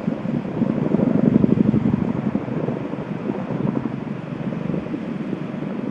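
Boeing CH-47D Chinook tandem-rotor helicopter flying overhead, its rotor blades giving a rapid, continuous thumping over turbine and wind noise, loudest about a second in and easing slightly after.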